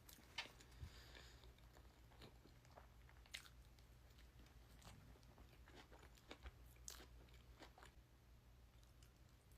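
A person chewing and biting into food close to the microphone, faint, with a dozen or so sharp crunches and mouth clicks scattered irregularly through it.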